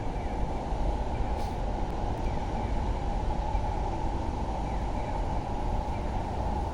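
Steady rush of wind and road noise at a bicycle-mounted external microphone while a road bike is ridden, even throughout with no single event standing out.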